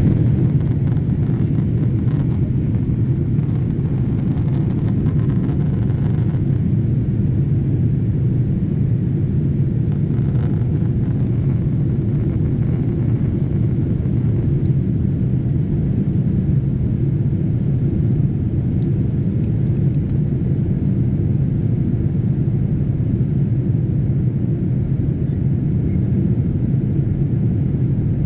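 Steady low rumble of an airliner's cabin noise in flight.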